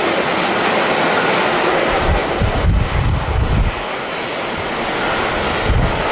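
Jet airliner engine noise, a steady rush spread across high and low pitches. Gusts of strong wind buffet the microphone in heavy low rumbles from about two seconds in and again near the end.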